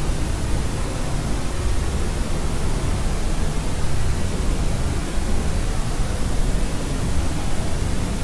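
Steady white noise used as a baby sleep aid: a constant, even hiss with a deep rumble underneath, unchanging throughout.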